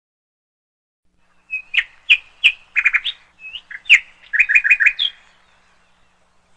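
A bird chirping: a string of short, sharp chirps starting about a second and a half in, with two quick runs of four or five chirps in a row, stopping a little after five seconds.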